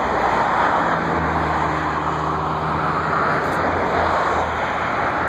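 Steady, loud roar of a jet airliner's engines, with a low droning hum joining in about a second in and fading a few seconds later.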